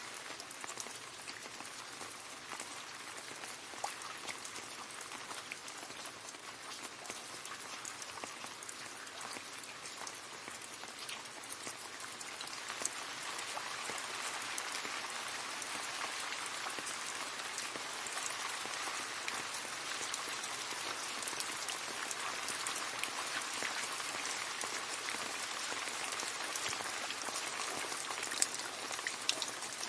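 Steady rain falling into a puddle, a dense patter of drops splashing on water. It grows a little heavier about halfway through.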